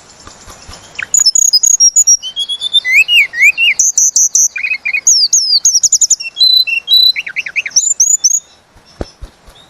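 Tledekan gunung songbird singing a fast, varied song of whistled glides and trills. The song starts about a second in and breaks off near the end, leaving a few faint knocks.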